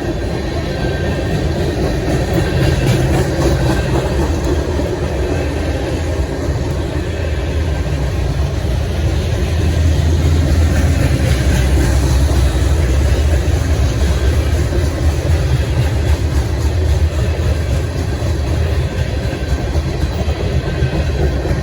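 Freight train rolling past, a steady heavy rumble of cars on the rails that grows louder about halfway through.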